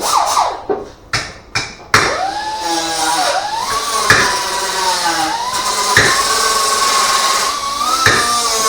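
Four sharp metal-on-metal blows, then a power tool starts up about two seconds in and runs with a wavering whine and hiss, with a sharp knock about every two seconds.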